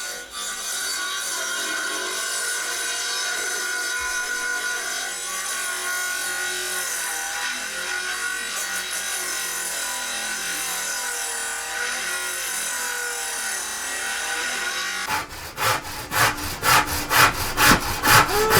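Sawing through a board: a steady rasping for most of the stretch, then distinct back-and-forth saw strokes, about three a second, near the end.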